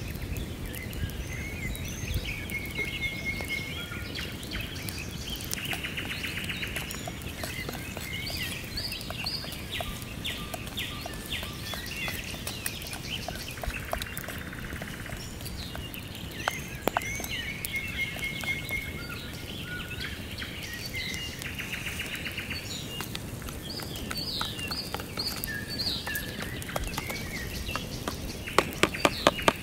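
Wild birds singing: repeated chirps, buzzy phrases and trills over a low, steady background noise. Just before the end, a quick series of sharp taps as a knife knocks rice out of a plastic container into a frying pan.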